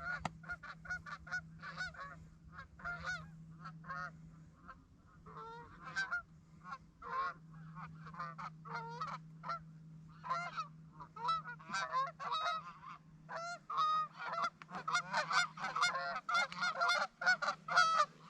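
Geese honking and clucking in many short calls, sparse at first and coming thick and fast in the last few seconds as the flock closes in, over a faint steady low hum.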